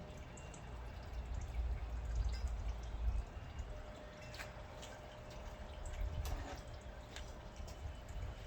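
Engine coolant dripping from the nearly drained radiator into a pan, the last of it running out, with a few sharp clicks over a low rumble.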